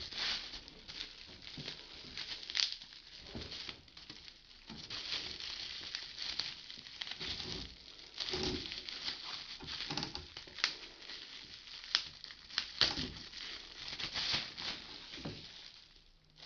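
Plastic packaging rustling and crinkling while a vacuum cleaner hose is unwrapped and handled, with scattered sharp clicks and knocks from the parts.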